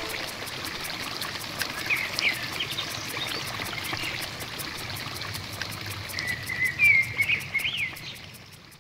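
Nature ambience of running water with birds chirping in short bursts, about two seconds in and again near the end, fading out at the close.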